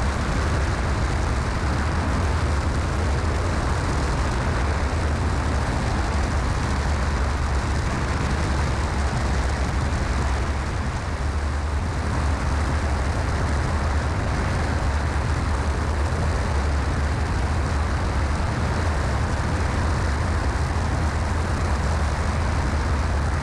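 Cessna 172SP's four-cylinder Lycoming engine and propeller droning steadily in flight, heard from inside the cockpit as a loud low hum with rushing noise over it.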